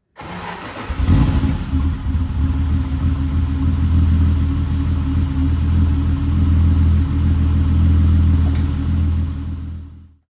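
1973 Triumph TR6's straight-six engine running at a steady idle shortly after a cold start on choke. It cuts in abruptly, grows louder about a second in, then holds a steady, deep note until it stops suddenly near the end.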